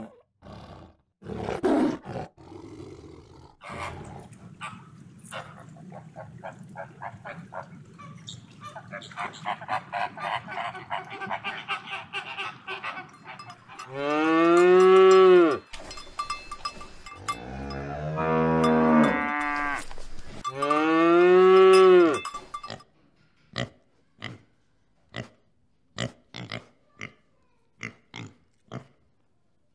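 Cows mooing: three long, loud moos, each rising and then falling in pitch, with cowbells clanking rapidly before them. There is a short growl near the start, and toward the end come short grunts, evenly spaced about every half second.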